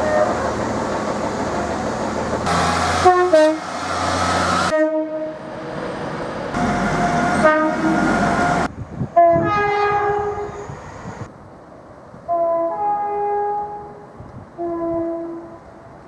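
Train horns sounded over and over in a string of short clips cut together, most of them two-tone blasts, with the rumble of trains on the track beneath the first few seconds.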